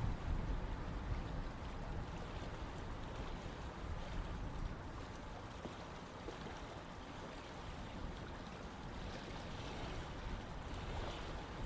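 Running water of a river or stream, an even rushing with a heavy low rumble that eases slightly in the middle and builds again near the end.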